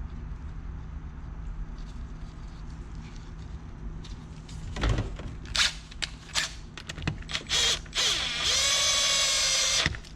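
Metal parts clinking and tapping together several times, then a handheld power tool's motor spins up with a rising whine and runs steadily for about a second and a half before stopping suddenly.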